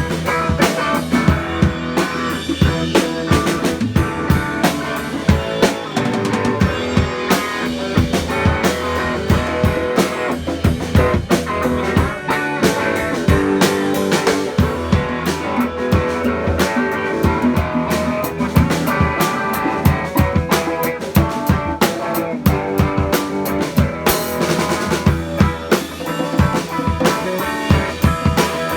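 Live band jamming on an instrumental groove: a drum kit plays a steady beat of bass drum and snare rimshots under guitar.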